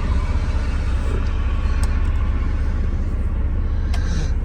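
2005 GMC Envoy SLT's engine idling, a steady low rumble heard inside the cabin from the back seat.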